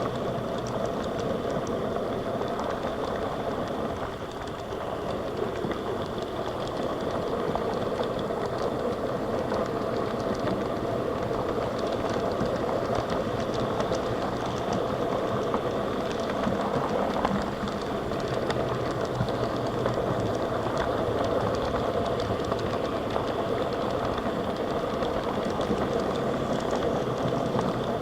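HO scale model train running steadily around its track: a continuous motor hum and wheel rattle with fine clicking over the rails.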